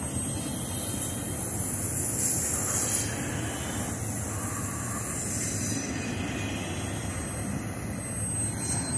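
Double-stack intermodal freight train passing close by: a steady rolling noise of steel wheels on the rails.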